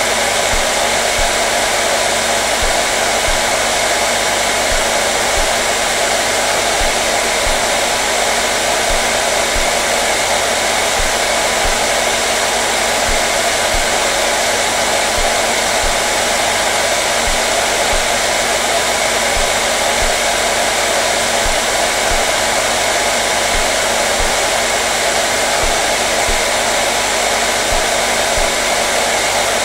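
Hair dryer running steadily on one setting: a constant airy rush with a steady motor hum, unchanging throughout.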